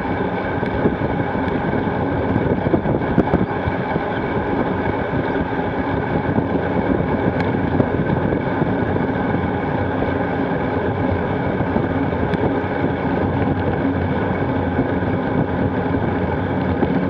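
Steady wind rush on the microphone of a bike-mounted action camera, mixed with the rumble of gravel bike tyres rolling along at speed.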